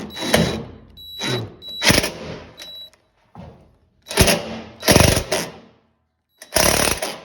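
A power driver run in several short bursts with pauses between, driving fasteners in as the washing machine is put back together.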